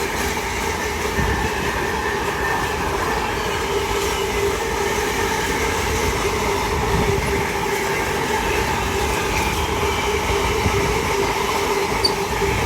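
Freight train rolling past on the track, a steady rumble with a steady high whine over it and no let-up.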